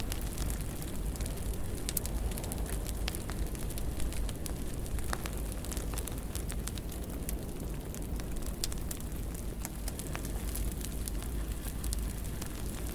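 Fire burning in a fireplace: a steady low rumble with many irregular sharp crackles and pops.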